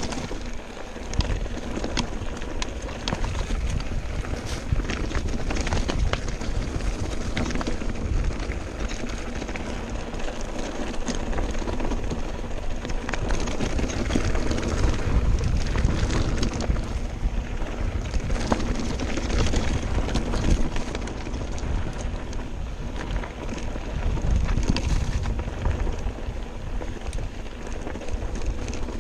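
Mountain bike rattling and clattering over a rough trail at speed, with frequent sharp knocks, and wind buffeting the microphone with a low rumble.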